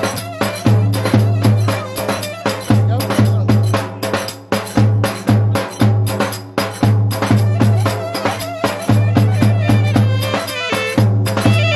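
Turkish folk music led by percussion: a steady, deep drum beat with sharp clacking strokes over it, and a piping melody coming in near the end.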